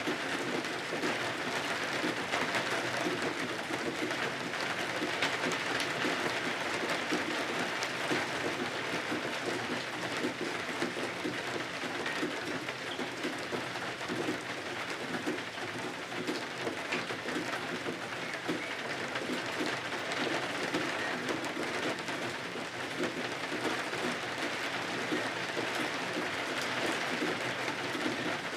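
Steady rain falling in an even, unbroken patter.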